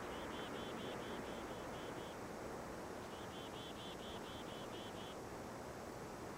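A bird calling in two trills of repeated high chirping notes, each about two seconds long, over a steady rushing background.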